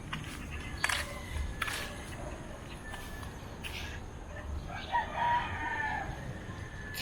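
A rooster crowing once, about five seconds in, a single call lasting about a second and a half. A few footsteps scuff along before it.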